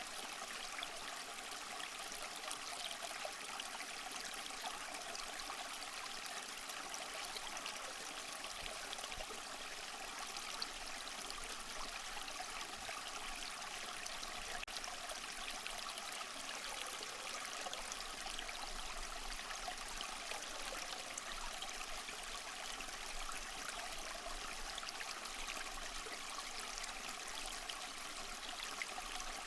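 Small waterfall splashing and trickling over mossy rocks, a steady even rush of water.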